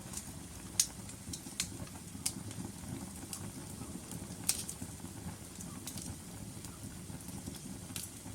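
Wood fire burning in a fireplace: a steady low rumble of the flames with sharp, irregular crackles and pops from the logs, the loudest about a second in and again near the middle.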